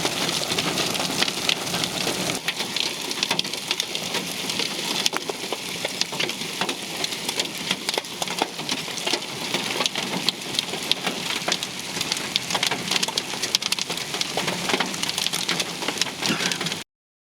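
Heavy rain pelting down in a dense patter of sharp impacts, cutting off suddenly near the end.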